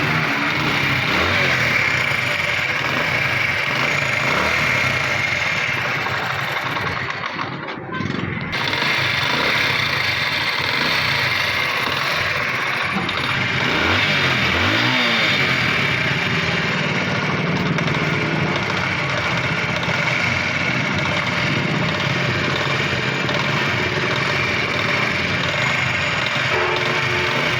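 Small motorcycle engine running steadily, revved briefly about halfway through.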